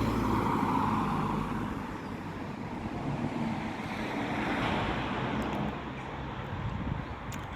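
Road traffic going by: a steady rush of engine and tyre noise that swells about a second in and again around the middle.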